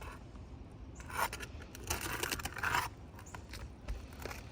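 Rough scraping and rubbing against asphalt roof shingles, in two bursts: a short one about a second in and a longer one around the middle.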